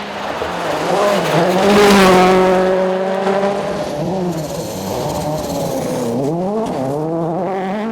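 A 2014 World Rally Car's turbocharged engine revving hard as the car passes, loudest about two seconds in with a rush of tyre and gravel noise. Then the revs dip and climb again twice as it goes on.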